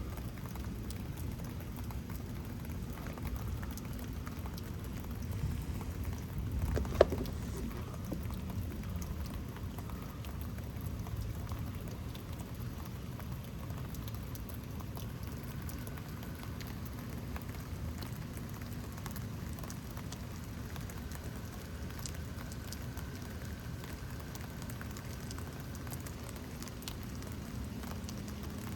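Steady rain falling, a dense patter of drops. A single sharp click about seven seconds in.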